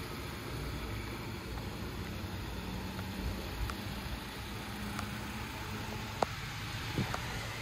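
A car idling: a steady low hum with hiss, with a few faint light clicks in the second half.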